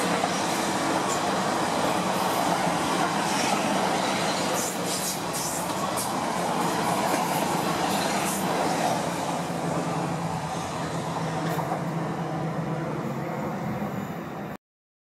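Electric multiple-unit passenger train running past close by: a steady rolling rumble of steel wheels on rail, with a few clicks over rail joints about five seconds in. The sound cuts off abruptly just before the end.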